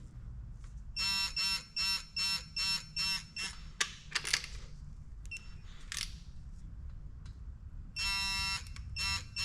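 GearWrench electronic torque wrench beeping as a bolt is pulled up to its 32 ft-lb setting: a run of short, high beeps about three a second, a longer steady beep about 8 seconds in, then short beeps again. The wrench beeps once the torque passes about 28 ft-lb, warning that the set value is near.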